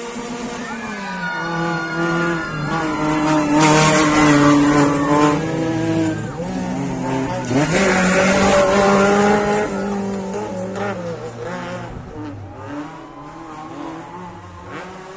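Rally car engine revving hard as the car passes, its pitch stepping through gear changes, dropping about six seconds in and climbing again before fading away.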